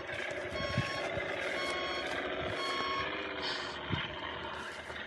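Reversing beeper of a radio-controlled construction truck, beeping steadily about once a second and stopping about three seconds in, over the running noise of the model's drive.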